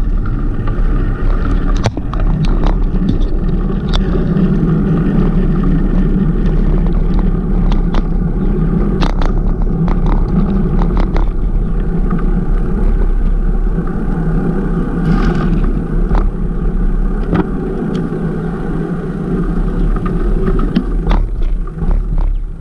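Steady rumbling noise of a bicycle being ridden on a street, with wind on the microphone and tyre noise, and scattered clicks and rattles from the bike.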